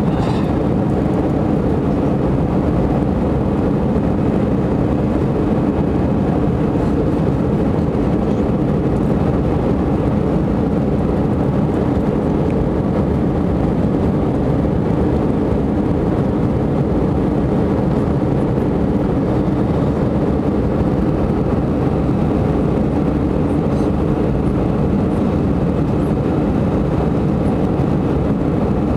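Jet airliner's engines and rushing air, a steady, even noise with no rise or fall, as heard from the passenger cabin during the flight.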